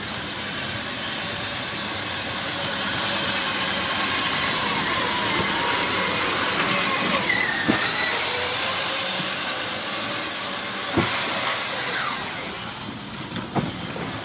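Road vehicle on a wet road: a steady hiss of tyres on water with engine noise, swelling about halfway through and easing off, as in a pass-by. A couple of short knocks come near the end.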